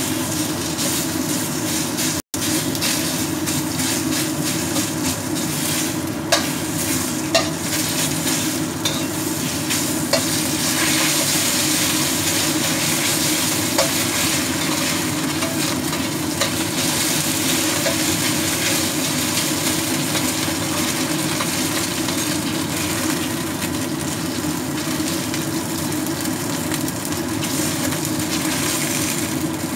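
Frying in a wok: a steady sizzle while a metal spatula stirs and scrapes, with scattered short clicks of the spatula against the pan, over a steady low hum.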